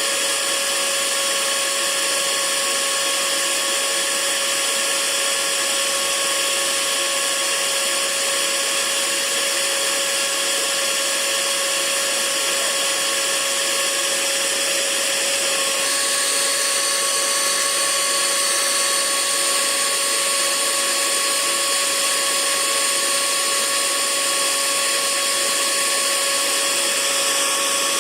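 Hair dryer running steadily: a constant rush of blown air with a motor whine. Its tone shifts slightly a little past halfway through.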